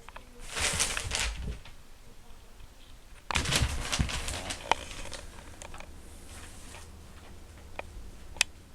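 Newspaper pages rustling and crinkling in two bursts as a kitten pounces on and paws at them, followed by a few sharp taps.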